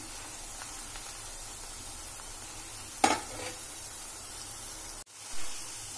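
Onion pakodas deep-frying in hot oil with a steady sizzle while a spoon stirs them. A short sharp knock comes about three seconds in, and the sound drops out for a moment just after five seconds.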